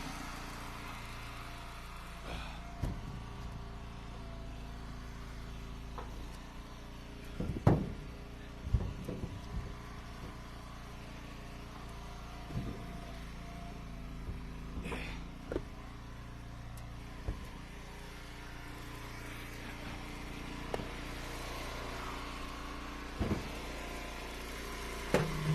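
Gas-engine hydraulic wood splitter running steadily, with scattered wooden knocks and thumps as split ash firewood is handled and tossed; the loudest knock comes about 8 seconds in.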